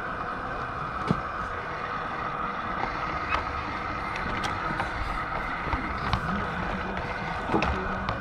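G scale model train running on the garden railway track: a steady running noise with a few sharp clicks at irregular moments.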